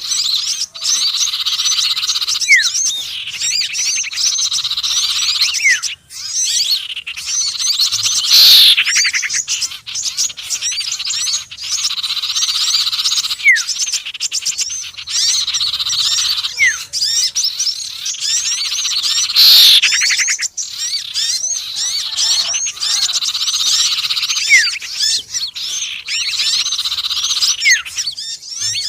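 Bird-lure recording combining the calls of sirtu, konin and sepah raja: a dense, continuous stream of high twittering chirps with short falling notes every few seconds, and a loud sweeping call twice, about eleven seconds apart.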